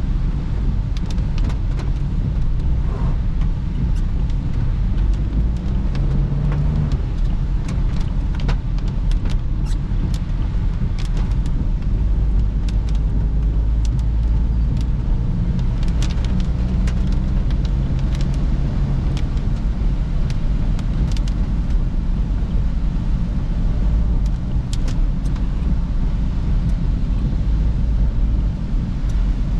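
Perodua Bezza small car driving, heard from inside the cabin: a steady engine and road rumble with scattered sharp ticks throughout.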